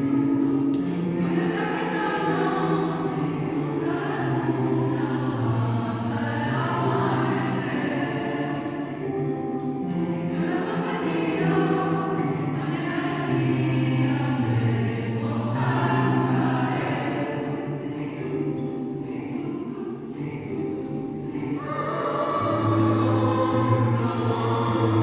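A choir singing in parts, holding long chords with low and high voices together and moving from one chord to the next every second or two.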